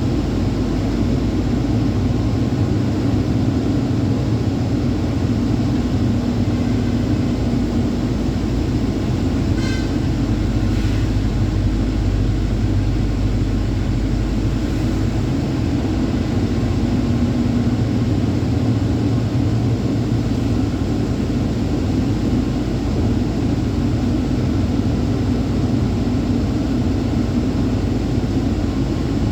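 Truck engine and road noise while driving, a steady low drone throughout, with a short run of clicks about ten seconds in.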